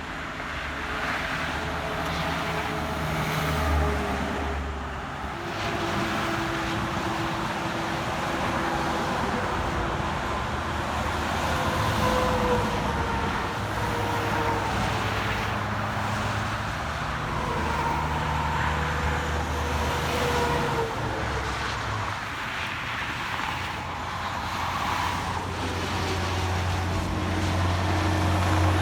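Steady highway traffic passing by: cars and trucks go past one after another, their engine tones rising and falling as each passes.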